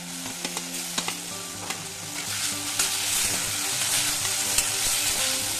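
Onions, spices and freshly added tomato sizzling in oil in a kadai, with a spatula tapping and scraping the pan as the mixture is stirred. The sizzle grows louder about two seconds in.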